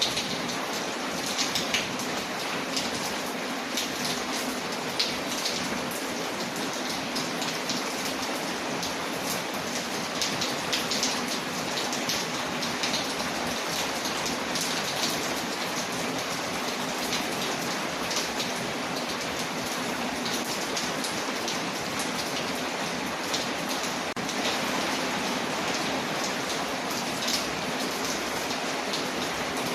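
Steady rain falling, with many small sharp ticks throughout.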